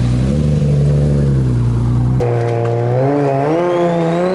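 Car engine running, then after a sudden cut about two seconds in, revving with a wavering, climbing pitch while a thin high whistle rises steadily near the end.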